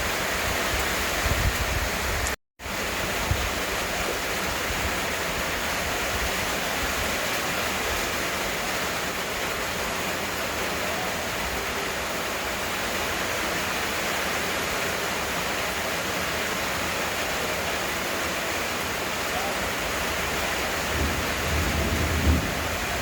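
Heavy rain falling steadily, an even hiss. The sound cuts out for a moment about two and a half seconds in, and a low rumble rises near the end.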